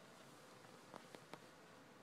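Near silence: room tone, with three faint short clicks close together about a second in.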